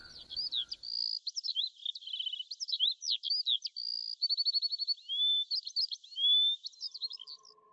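Birdsong: a busy run of high chirps, whistled notes and short rapid trills.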